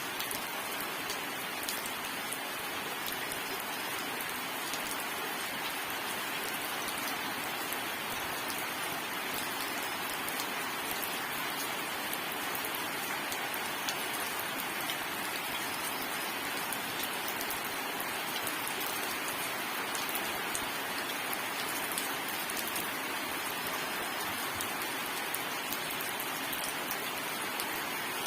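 Steady rain falling on a surface, an even hiss dotted with many small drop ticks, with no thunder.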